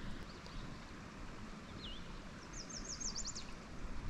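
Small songbird calling: a few short high chirps, then a quick run of about eight high notes a little after halfway. Faint steady hiss of open-air background underneath.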